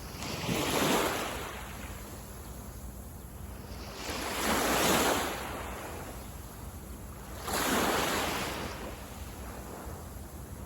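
Small waves breaking and washing onto a sandy beach, three surges a few seconds apart, each swelling and fading, over a steady background hiss of surf and some wind on the microphone.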